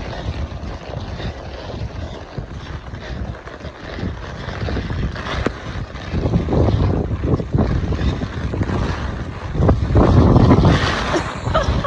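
Typhoon wind gusting hard against the microphone in driving rain, a rough rumbling roar that swells in gusts and is loudest about ten seconds in.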